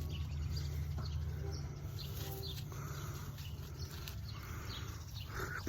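Faint calls of farmyard birds: a short pitched call about two seconds in and scattered faint chirps, over a steady low rumble, with a few small clicks.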